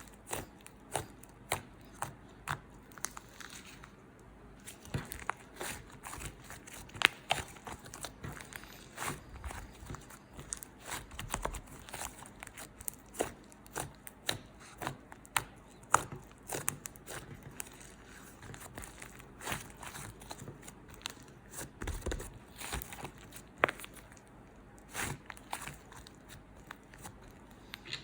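Crinkly material being handled at close range: irregular crackling, crinkling and tearing with sharp clicks and taps.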